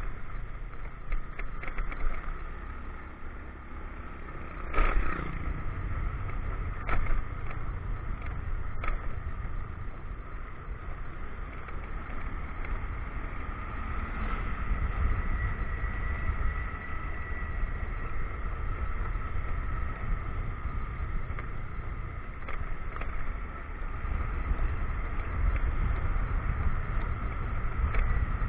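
Motorcycle riding along, its engine running steadily under a low rumble of road and wind noise. A few sharp knocks come through, the loudest about five seconds in, as the bike jolts over the broken, potholed road.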